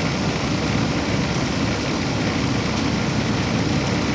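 Heat pump outdoor unit running: a steady, even whooshing noise from its fan and compressor.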